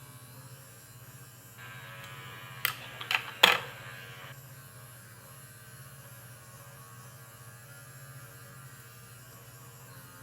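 Electric facial cleansing brush running with a steady low hum as it is worked over the skin, with three sharp knocks about three seconds in.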